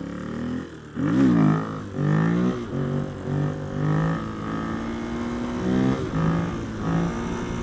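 Honda XR250R dirt bike's single-cylinder four-stroke engine revving sharply up and back down about a second in. It then runs under throttle, its note stepping up and down with the throttle and gear changes.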